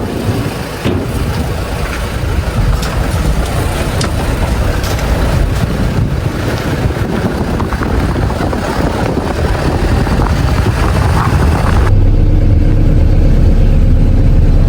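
A motor vehicle on the move: engine and road rumble with a rushing noise. About twelve seconds in, the sound changes abruptly to a steadier, lower engine hum.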